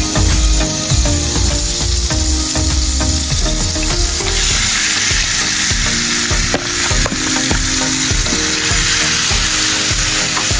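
Butter sizzling as it melts in a hot non-stick pan. About four seconds in, marinated chicken pieces go into the pan and the sizzle grows fuller. Background music with a steady beat plays underneath.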